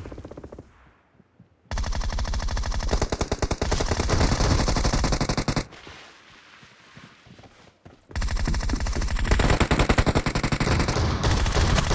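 Automatic weapon fire in a shooter video game: two long rapid bursts, the first starting about two seconds in and stopping near the middle, the second starting about eight seconds in.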